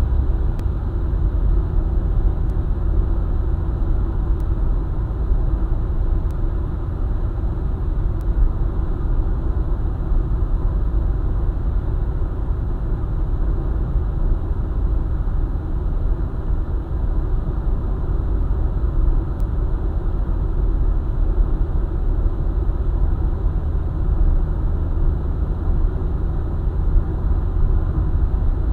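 Steady low rumble of a vehicle driving at speed on a highway, tyre and engine noise without let-up.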